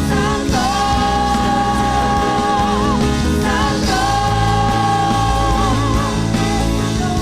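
Worship music: a singer holds three long notes, each ending in a wavering vibrato, over a band's steady accompaniment.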